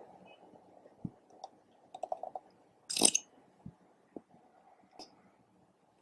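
Slime being mixed and worked by hand, making scattered soft wet clicks and squishes, with one louder, longer squelch about three seconds in.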